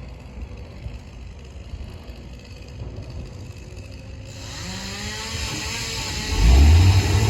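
A low engine rumble; a little over four seconds in, an engine revs up with a rising pitch and a hiss, and near the end it settles into a loud, deep rumble.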